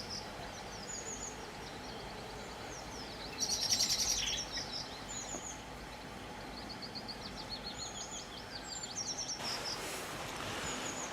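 Small songbirds singing, with repeated short high chirps and a loud, fast trill about three and a half seconds in, over a steady low background noise. A soft hiss comes in near the end.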